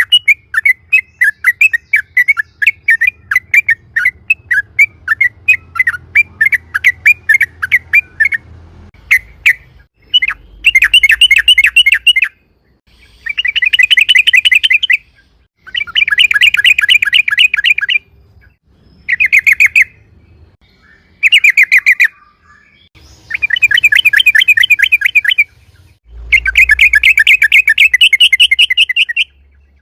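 Yellow-vented bulbul (trucukan) singing. It starts with a quick run of separate sharp chirps, about three or four a second, then from about a third of the way in breaks into loud, fast rattling trills, seven bursts of one to two and a half seconds each with short pauses between.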